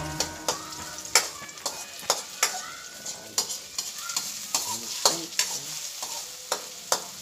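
Chopped onions sizzling in hot oil in a stainless steel wok as they fry golden, stirred with a spatula that clinks and scrapes sharply against the pan about twice a second.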